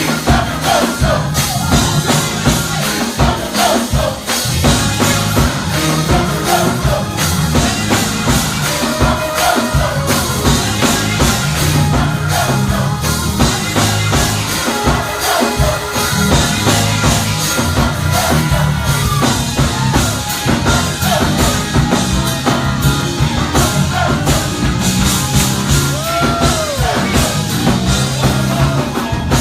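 Gospel choir singing live over a band with drums, in a steady, upbeat groove.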